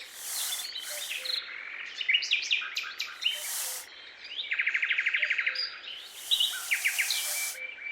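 Several birds chirping and singing, with quick trills and short bursts of hiss between them.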